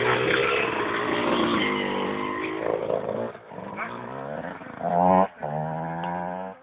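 Motocross motorcycle engine revving, its pitch falling and rising, then revved hard about five seconds in and held at a steady high rev before dropping away at the end.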